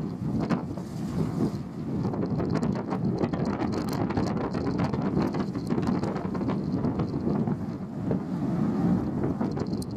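Steady low rumble of the Ise Bay Ferry Ise-maru under way, with wind buffeting the microphone and a constant rushing crackle.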